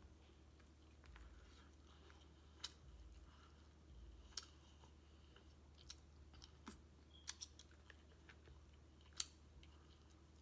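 Faint chewing of food with a few sharp mouth clicks and smacks scattered through, over a steady low hum.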